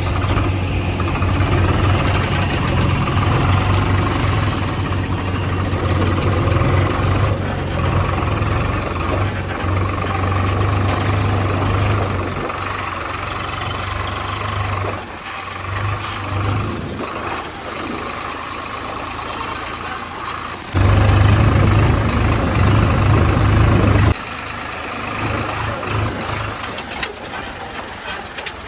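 Diesel engine of heavy earth-moving machinery running with a steady low drone, easing off about halfway through, then suddenly louder for about three seconds before dropping back.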